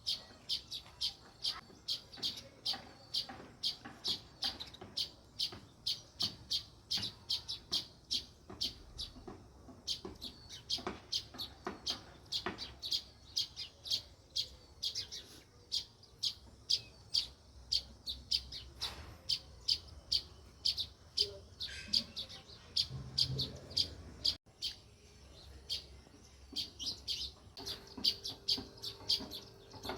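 House sparrows chirping continuously, short repeated chirps at about three a second.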